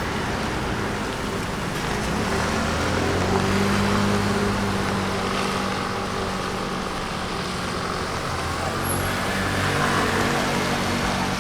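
A motor vehicle's engine running close by on the street, its low hum swelling and easing as it moves, over a steady hiss of traffic.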